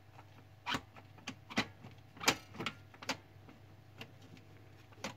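Paper pickup gear assembly of an HP LaserJet 3055 MFP turned by hand, giving a series of irregular clicks. The pickup binds stiffly at one point in its turn, which the technician takes as a possible cause of the printer's loud gear noise.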